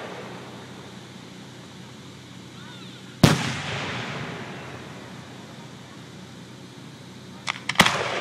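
Aerial fireworks shells bursting: one loud boom about three seconds in that rumbles and echoes away over a couple of seconds, then a couple of small cracks and another loud boom near the end.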